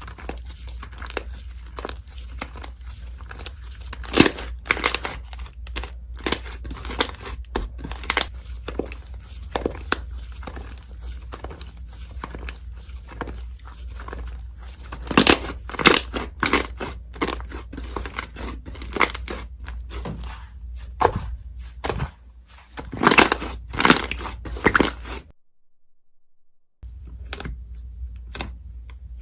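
Slime being played with by hand: irregular crackling and popping clicks, with a few louder bunches of pops. The sound drops out briefly a few seconds before the end, then the clicking starts again.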